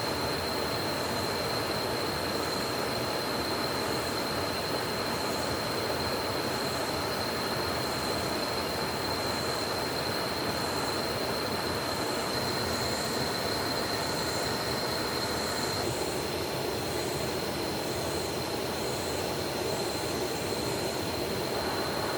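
Steady rushing of a swollen, rain-fed forest stream, with a thin steady high-pitched tone running over it.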